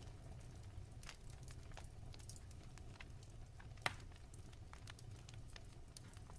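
Wood fire crackling softly: scattered small snaps and pops, with one sharper pop a little before four seconds in, over a low steady rumble.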